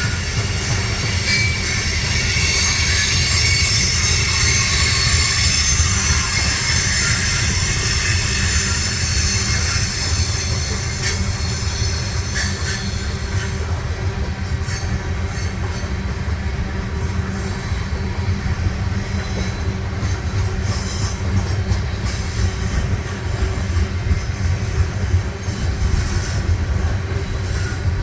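A Union Pacific freight train rolls slowly past with a steady rumble of cars on the rails. High-pitched wheel squeal is strong in the first half and dies away about halfway through.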